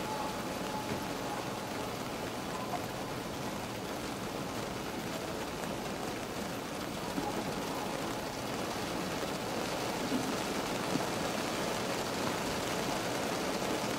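Rain falling on a car, heard from inside the cabin: a steady patter with a few louder single drops.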